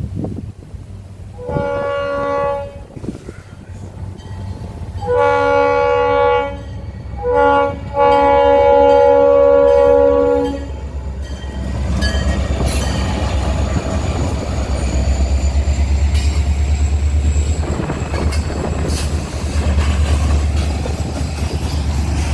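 A freight locomotive's air horn sounds the grade-crossing signal (long, long, short, long), the last blast the longest, as the train approaches the crossing. About eleven seconds in, it gives way to the low rumble of the locomotives and cars rolling past, with a steady rhythmic clatter of wheels on rail joints.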